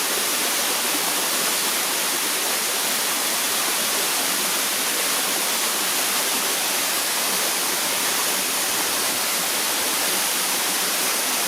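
Small waterfall pouring into a rocky stream: a steady, unbroken rush of falling water, mostly hiss with little low rumble.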